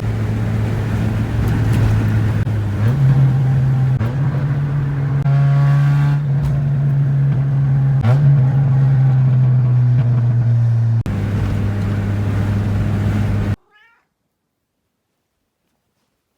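Straight-piped Mazda Miata 1.6 four-cylinder exhaust droning at a steady cruise. Its pitch jumps up about three seconds in, holds, and drops back about eleven seconds in. The sound then cuts off abruptly.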